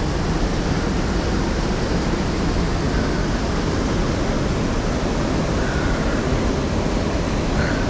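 Steady rush of fast-flowing river water over rapids.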